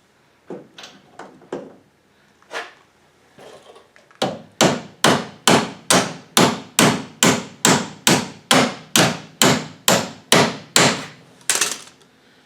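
Hammer blows on the steel parts of a VW Beetle-type front beam being rebuilt. A few lighter separate knocks come first, then a steady run of about eighteen hard strikes, a little over two a second, stopping about a second before the end.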